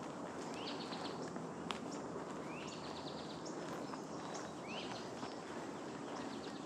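A songbird repeating a short song about every two seconds, each a quick rising note followed by a buzzy trill, over a steady background hiss and a few light clicks.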